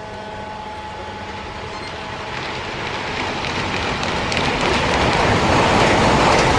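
High-speed train approaching and passing at speed: a rushing whoosh that builds steadily over several seconds and is loudest as the train goes by near the end.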